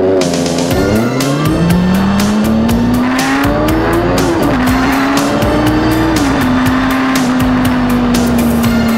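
Motorcycle engine easing off, then pulling hard with its pitch climbing, and dropping back about four and six seconds in as it shifts up through the gears. Music with a steady beat plays over it.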